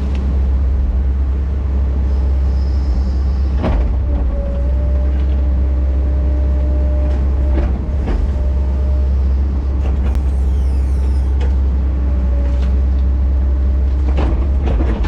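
Heavy earthmoving machine's diesel engine running steadily under work, with a few sharp knocks and a faint tone that comes and goes.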